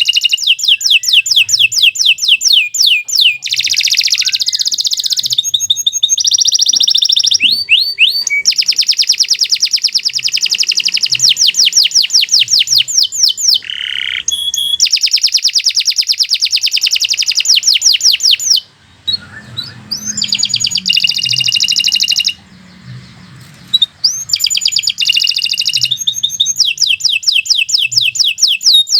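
Domestic canary singing a long song of rapid trills: rolls of fast, evenly repeated high notes, each held for several seconds, with a couple of brief pauses about two-thirds of the way through.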